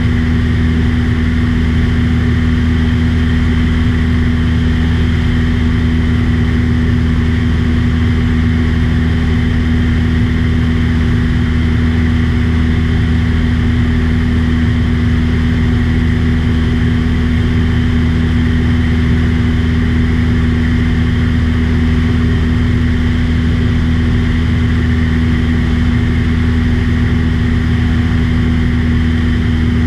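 Aircraft engine and propeller droning steadily in flight, one constant pitch throughout.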